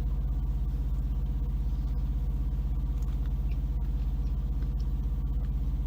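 Semi truck's diesel engine idling, heard from inside the cab: a steady low hum with an even, fast throb.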